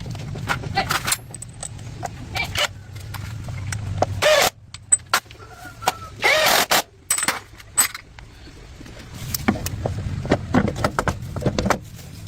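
Metal clinking and knocking of workshop hand work, in many separate sharp strikes, over a low running hum that stops about four seconds in and comes back near the end.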